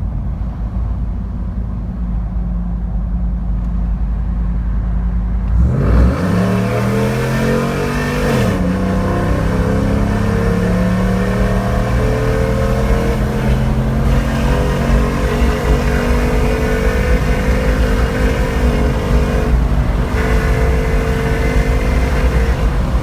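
Ram 1500's 5.7 L Hemi V8 through JBA long-tube headers and Carven Competitor mufflers: a steady low exhaust rumble, then about six seconds in it opens up under hard acceleration. The pitch climbs, dips briefly a couple of seconds later, then rises slowly and steadily as the revs build.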